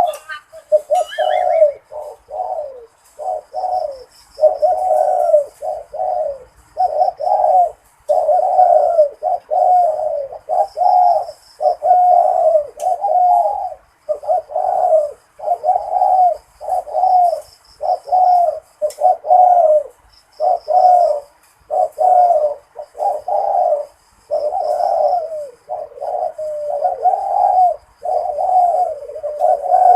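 Zebra dove cooing, a steady run of repeated rolling phrases about a second apart. Faint high chirping sits behind it.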